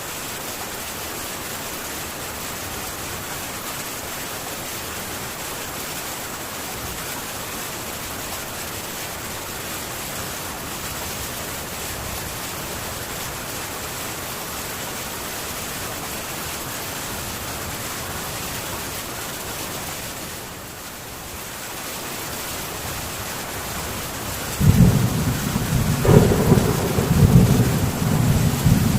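Heavy rain on a metal tin roof, a steady hiss. About three-quarters of the way through, a loud rolling rumble of thunder comes in and carries on.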